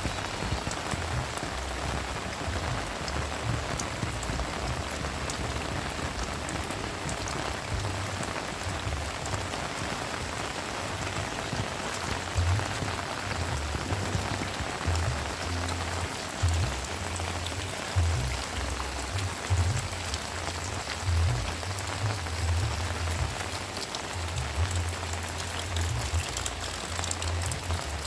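Heavy rain falling steadily, with irregular low thumps throughout.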